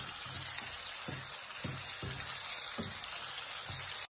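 Sliced onions and carrots sizzling as they fry in a stainless steel pan, with a steady hiss. A spatula scrapes and knocks through them about every half second as they are stirred. The sound stops abruptly near the end.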